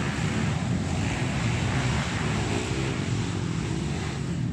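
Honda XRM underbone motorcycles running on a motocross track, a steady engine rumble with wind buffeting the microphone.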